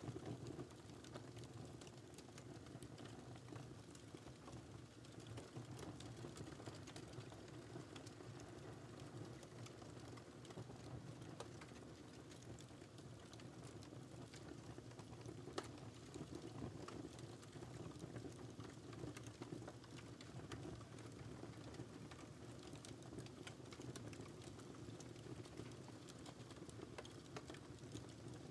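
Wood fire crackling faintly in a fireplace: a steady low rumble of the flames, dotted with frequent small pops and ticks, one a little sharper about halfway through.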